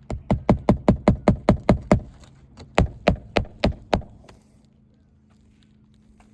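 Hammer driving roofing nails into a new asphalt shingle: about ten quick strikes, a short pause, then about five more that stop around four seconds in.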